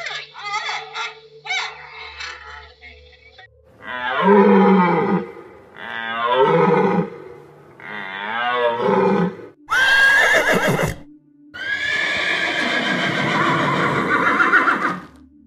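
A run of animal calls: first several short, faint giant panda bleats, then three loud wavering deer calls, then a horse neighing, a short sharp neigh followed by one long whinny near the end.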